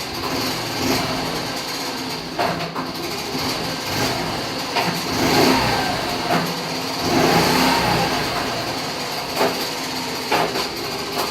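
Honda Super Cub's single-cylinder four-stroke engine running with an abnormal noise, which the owner puts down to partial seizure inside the engine. It is revved up and back down twice in the middle, with a few sharp knocks here and there.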